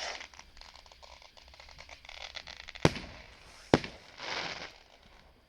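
Fireworks going off: crackling at first, then two sharp bangs less than a second apart about three seconds in, followed by a short hiss.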